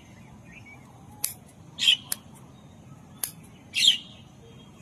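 Chillies being picked off the plant: twice, a sharp click followed by a short crisp snap, about two seconds apart.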